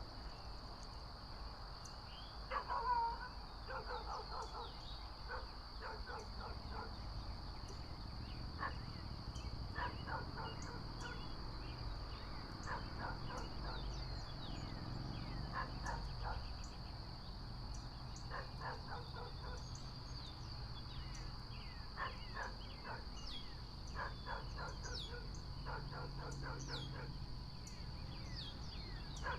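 Steady high insect trill with bursts of short, quickly repeated bird calls every few seconds, the loudest about three seconds in.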